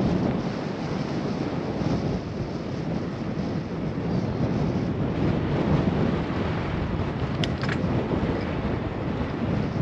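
Steady wind rushing over a GoPro microphone while cycling, with two brief clicks about three-quarters of the way through.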